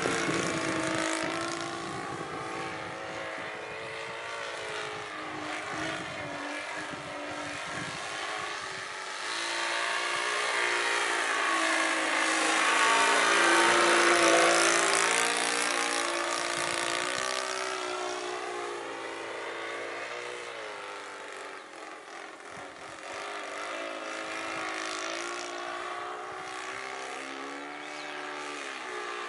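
Saito 82 four-stroke glow engine of a Yak 55M radio-controlled model plane in flight, its note rising and falling as the plane manoeuvres, loudest in a close pass about halfway through.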